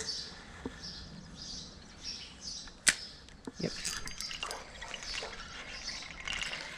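Outdoor creek ambience: birds chirping in short repeated calls over a faint trickle of water, with one sharp click about three seconds in.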